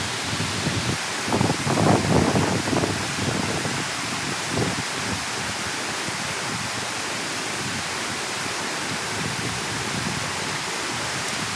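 Steady rush of water pouring through the dam as it drains, with wind buffeting the microphone in gusts during the first few seconds and once more near the middle.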